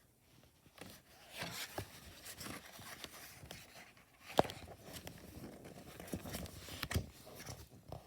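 Paper rustling and scraping as a book is handled and opened and its pages are turned, with a sharp tap about four and a half seconds in and another near seven seconds.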